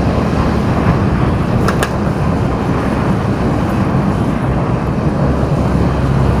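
Car driving in city traffic: steady engine and road noise. Two quick clicks come close together about two seconds in.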